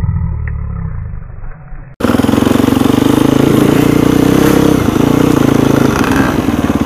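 Dirt bike engine running close by with a fast pulsing exhaust note at fairly steady revs. It cuts in abruptly about two seconds in, after a muffled low rumble.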